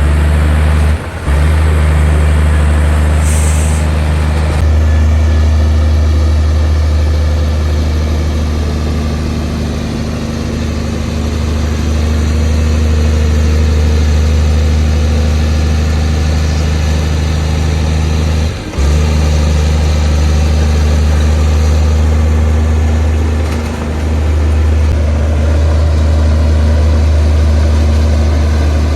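Heavy diesel engine of earthmoving machinery running steadily at a low, even pitch. A short high hiss comes about three seconds in, and the sound drops out very briefly twice.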